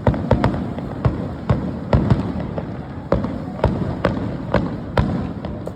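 Fireworks finale: aerial shells bursting in quick succession, sharp bangs coming about two a second over a continuous low rumble.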